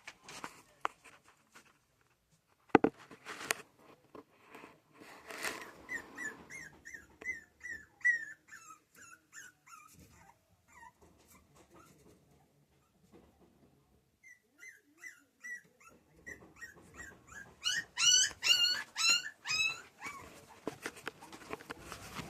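Young puppies whimpering and crying in quick runs of short, high, wavering cries, loudest near the end, with a few sharp knocks in the first few seconds.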